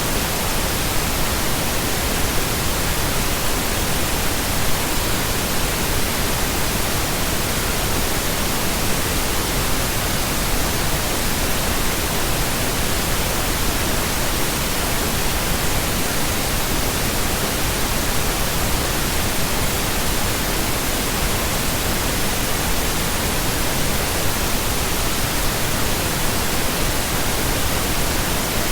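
Continuous pink noise, a steady, even hiss spread across all pitches, with no changes or events.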